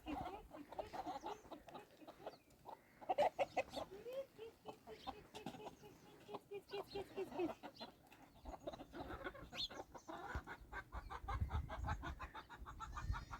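Chickens clucking in short calls, with a fast, even pulsing sound in the last few seconds.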